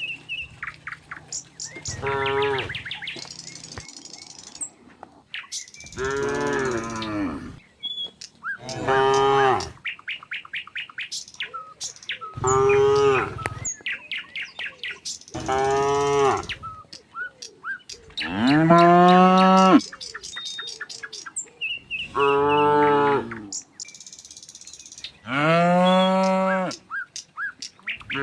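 Domestic cattle mooing repeatedly, about eight long moos spaced every three to four seconds, some of them falling in pitch. Faint bird chirps can be heard between the calls.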